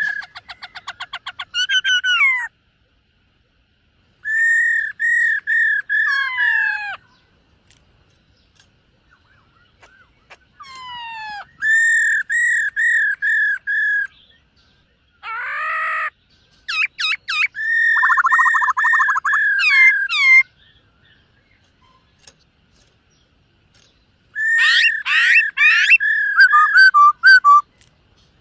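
Black-throated laughingthrush singing: several loud phrases of quickly repeated, slurred whistled notes, with pauses of a few seconds between them.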